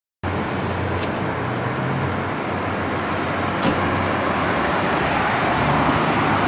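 Streetcar running along its track: a steady rumble with a low motor hum and a few light clicks, starting abruptly.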